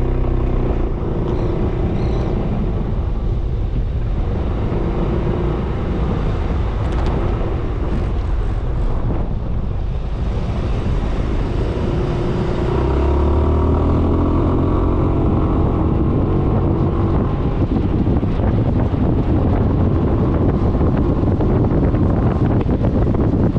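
Suzuki Burgman 400 scooter's single-cylinder engine running on the road with wind buffeting the microphone. About twelve seconds in it gets louder and its pitch rises as the scooter accelerates, and the wind noise grows after that.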